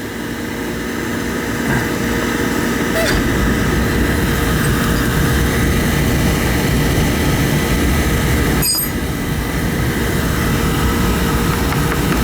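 Beckett oil burner running with a steady rushing mechanical noise from its motor and blower, while its one-pipe oil line is bled of the air drawn in when the tank ran dry. The noise dips briefly about three-quarters of the way through.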